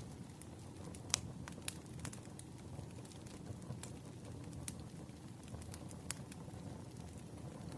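Firewood burning in an open fire: a steady low rush of flame with irregular sharp crackles and pops, the loudest pop about a second in.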